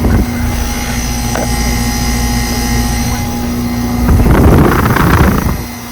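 2024 Ameristar central air conditioner running with its brand-new Trane rotary compressor and condenser fan: a steady hum over a low rumble. About four seconds in, a louder rough noise lasts for about a second and a half.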